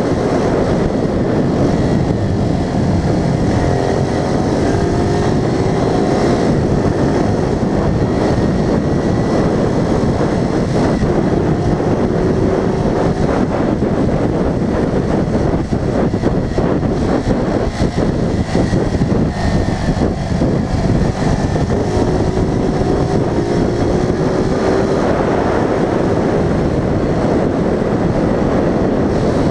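A vehicle driving along a winding road: engine and road noise run throughout, with wind on the microphone. The engine's pitch rises a few times as it speeds up between curves.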